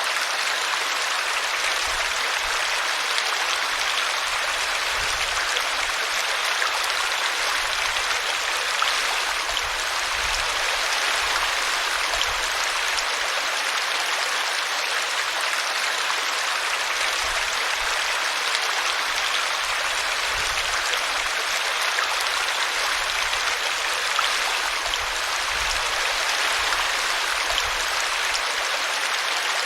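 A small brook flowing and splashing over a tree root: a steady rush of water.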